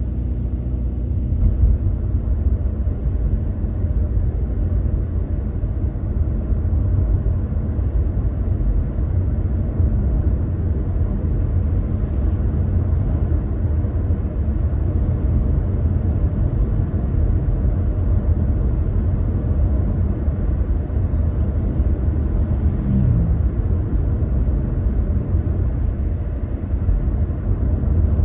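Car driving along: a steady low rumble of engine and road noise, with a short falling tone about two-thirds of the way through.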